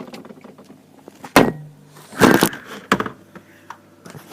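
Refrigerator door being shut: a sharp knock about a second and a half in, then a louder rush of noise and a softer knock shortly after.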